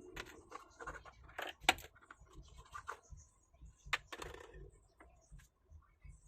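Scratching and handling noises with a few sharp clicks, the loudest just under two seconds in and another about four seconds in, like hands and tools working on a small speaker.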